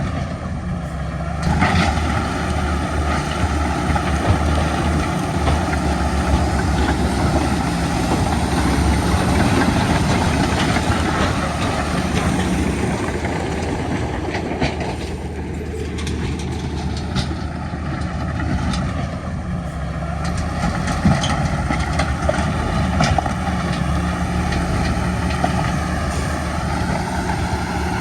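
Heavy diesel earthmoving machinery running steadily, with scattered short clanks. The engine note dips and then climbs again about halfway through.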